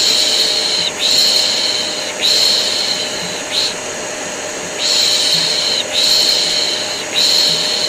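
Repeated human shushing, "shh" sounds about a second long, often two or three in a row with short gaps, over the steady drone of a running vacuum cleaner: white noise for soothing a colicky baby to sleep.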